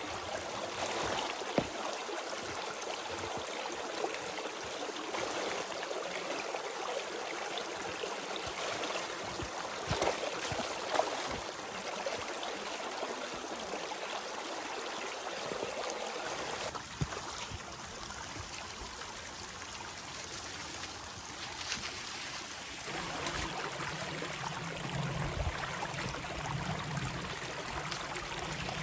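Steady rushing and trickling of running water, like a small stream, with a few sharp clicks. It drops a little about halfway through, and a low rumble joins near the end.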